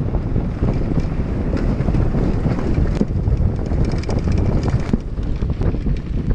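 Wind buffeting the microphone during a fast downhill mountain-bike run, with many short rattles and knocks from the bike over rough ground.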